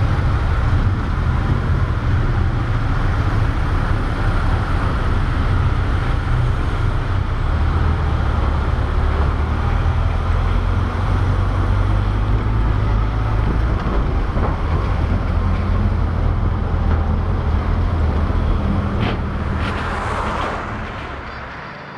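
A motor vehicle running steadily: a low engine rumble with wind rush, easing off in loudness about two seconds before the end.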